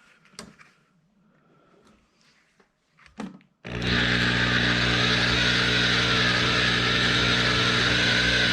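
Electric drill driving a Stripmaster wire-stripping machine switches on abruptly a little over a third of the way in and runs steadily at a loud, even speed. Before it, a few faint handling knocks.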